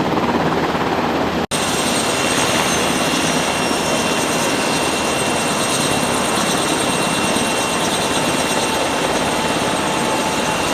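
UH-60 Black Hawk helicopters running: rotor chop over the steady high whine of their twin turboshaft engines. About a second and a half in the sound drops out for an instant and comes back with the engine whine more prominent.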